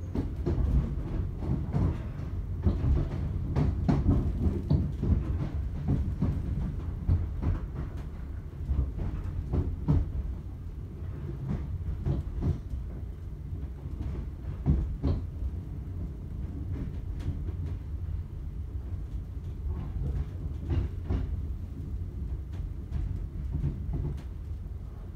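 Running noise of a class 321 electric multiple unit heard from inside the carriage: a steady low rumble from the wheels and running gear, with irregular clicks and knocks of the wheels over the track. It is louder for the first several seconds, then eases a little.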